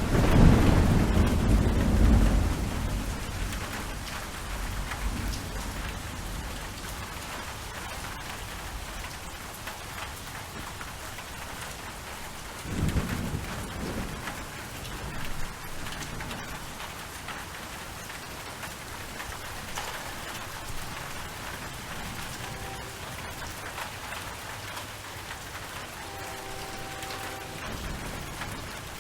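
Steady rain falling, with a loud rumble of thunder over the first couple of seconds and a shorter, fainter rumble about halfway through.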